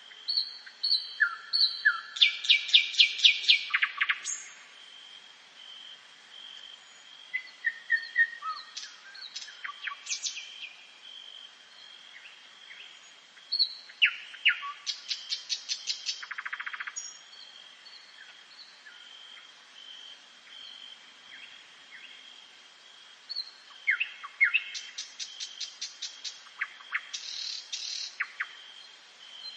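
Songbirds singing in woodland at dawn: three loud song bouts about ten seconds apart, each a quick run of repeated notes, with scattered chirps between them. A faint steady high tone runs underneath.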